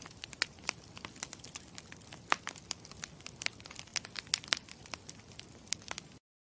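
Campfire crackling: a steady hiss with frequent, irregular sharp pops and snaps. It cuts off abruptly to dead silence near the end.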